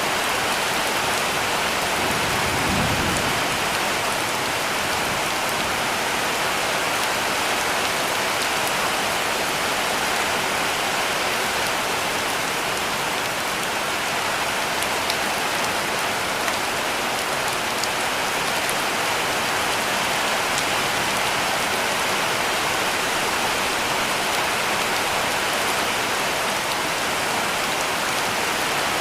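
Heavy rain pouring on a cabin roof: a steady, dense hiss with the odd sharper drop. A brief low rumble comes about two to three seconds in.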